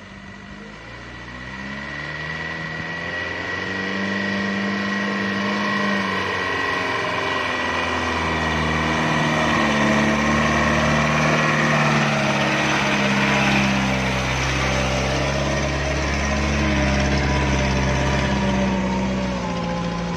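Small truck's diesel engine running under a load of sand and gravel, its revs rising and falling in steps. It grows louder over the first few seconds, then holds steady and loud.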